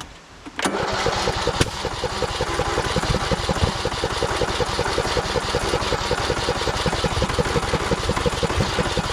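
The 2014 Craftsman T1600 lawn tractor's electric starter cranking the engine, which turns over in a steady, even rhythm for about nine seconds without catching. This tests whether the battery, after weeks of sitting, is strong enough to crank it.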